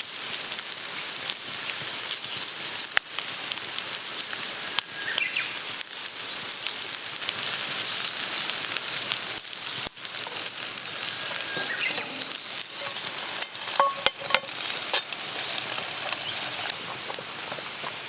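Food sizzling in a frying pan over a campfire: a steady frying hiss with scattered sharp pops and crackles.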